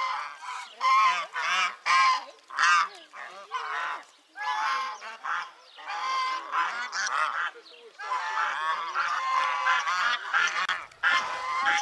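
A flock of domestic geese honking, many loud calls overlapping in a near-continuous din with only brief lulls.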